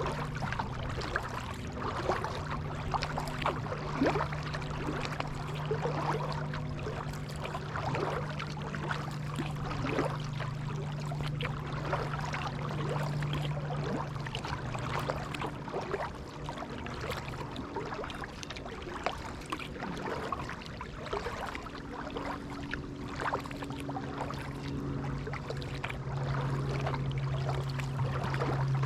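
Water splashing and dripping from a kayak paddle as it dips in and out of the pond, in irregular small splashes. A steady low hum runs underneath, fading for a few seconds past the middle and returning near the end.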